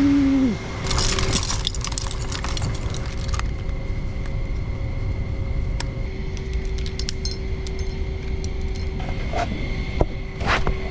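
Steady low rumble of a vehicle running, with scattered light rattles and clicks. A held tone cuts off about half a second in.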